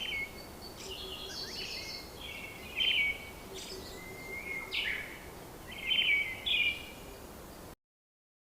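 Birds singing: a run of short, repeated chirping phrases over a faint steady background hiss, cutting off suddenly near the end.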